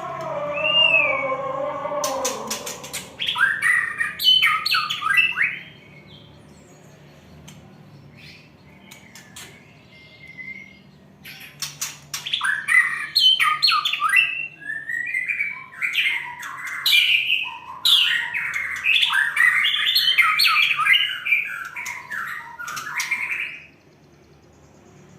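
A songbird singing quick, varied chirps and trills mixed with sharp clicks, in a short burst and then a longer bout after a pause.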